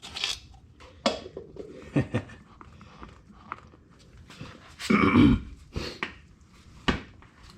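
Scattered knocks, clicks and clunks of a greasy steering rack and tie rods being handled. A louder, throaty grunt-like sound comes about five seconds in.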